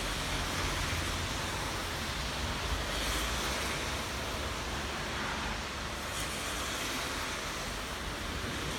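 Steady rain falling on potted plants, an even hiss of drops with a low rumble underneath.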